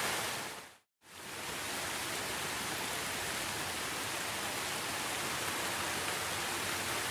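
Steady rain, a dense even hiss of falling rain. It fades out to silence just under a second in, then fades back up within about half a second and runs on unchanged: the join where the rain recording loops.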